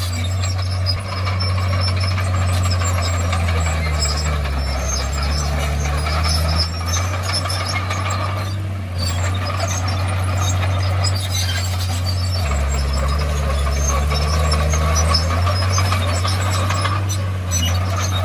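Komatsu D51PX bulldozer's diesel engine running steadily, with light clatter over it. The engine note dips lower about four seconds in and again about twelve seconds in, then comes back up each time.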